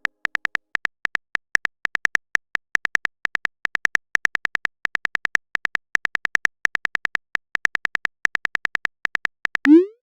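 Chat-app keyboard typing sound effect: a quick, uneven run of short high-pitched clicks, one per key, then a short rising swoop near the end.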